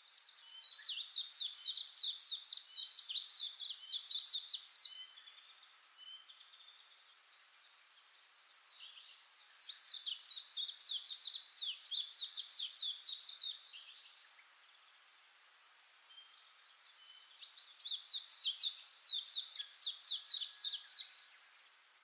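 A small songbird singing three bouts of quick, repeated high notes, each about four to five seconds long, with short pauses between them.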